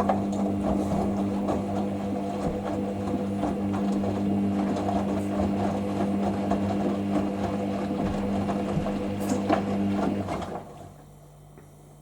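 Hoover SIX Inter@ct Whisper 1600 washing machine tumbling its load in the rinse, its drum motor running with a steady hum and a rattling, clicking texture. The motor stops about ten and a half seconds in, leaving only a faint hum.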